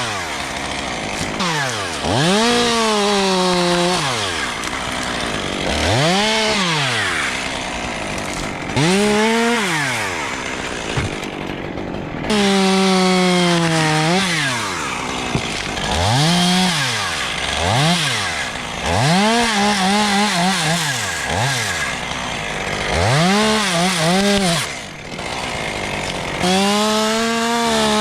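Chainsaw being worked through cuts: its engine is revved up to full speed and let back down over and over, about a dozen times.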